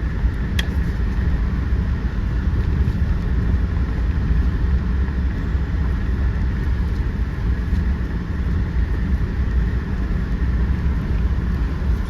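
A vehicle driving slowly along a rough access road: a steady low rumble of engine and road noise, with one sharp click about half a second in.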